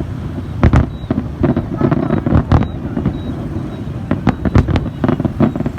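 Aerial fireworks going off in a rapid, irregular series of sharp bangs over a steady low rumble.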